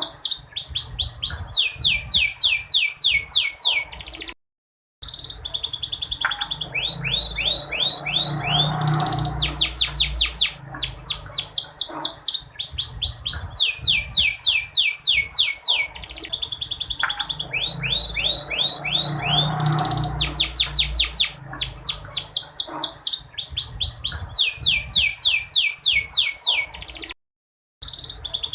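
Domestic canary trilling: fast runs of short down-slurred notes in repeated phrases. The uploader presents it as a female canary calling, used to stir a reluctant male canary into singing. The sound cuts out briefly twice, about four seconds in and near the end.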